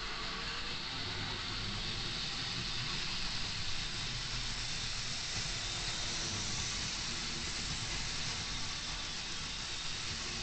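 Lima Class 31 model locomotive running along the track: a steady whirring hiss from its motor and wheels on the rails.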